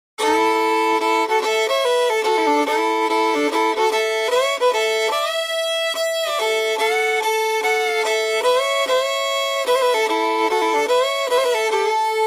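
Fiddle playing a melody as background music.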